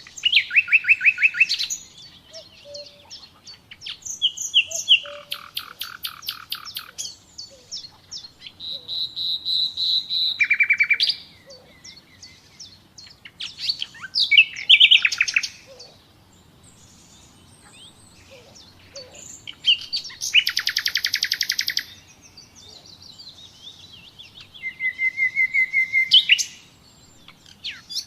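Common nightingale singing: six loud phrases of rapidly repeated notes, each a second or two long, broken by pauses of a few seconds with softer twittering between them.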